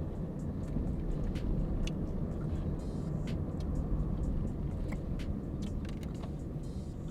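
Steady low rumble of a car heard from inside its cabin, with scattered small sharp clicks.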